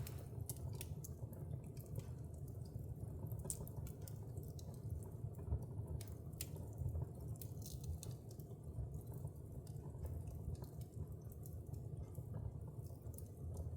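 Wood fire burning in a fireplace: a steady low rumble of flames with irregular sharp crackles and pops, a couple of louder pops about five and a half and seven seconds in.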